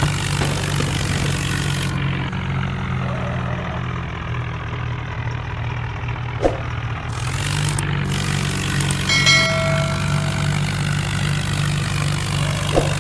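Diesel vehicle engine running steadily at a low, even pitch. About nine seconds in, a short high pitched tone sounds over it for about a second.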